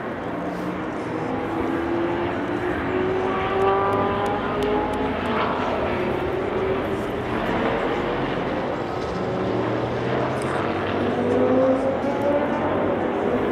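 Historic sports racing car engines at full throttle on track, several cars overlapping, their pitch climbing through the gears as they accelerate.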